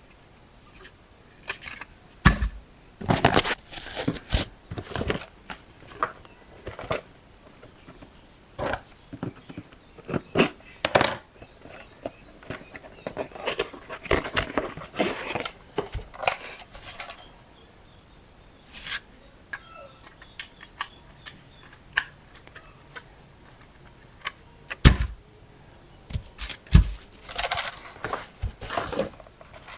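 Irregular clicks, taps and rustles of plastic toy parts and packaging being handled, with a few louder knocks.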